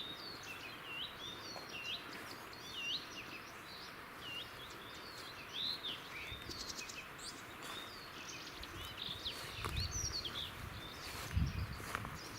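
Wild birds chirping and singing, many short rising and falling calls overlapping with one another. Low rumbling thumps join in the last few seconds.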